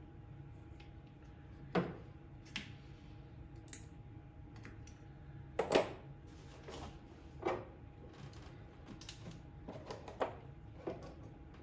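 Light clicks and knocks of tools and parts being handled, about a dozen irregular strokes with the loudest near the middle, over a faint steady hum.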